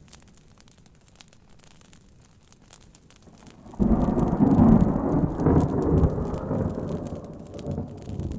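A sudden loud rumble of thunder about four seconds in, slowly fading, over a faint background of rain pattering on a tent and fire crackling.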